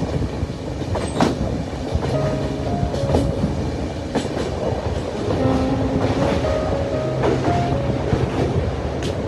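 Indian Railways passenger train running along the track: a steady rumble, with the clack of wheels over rail joints coming as a few sharp knocks at uneven intervals.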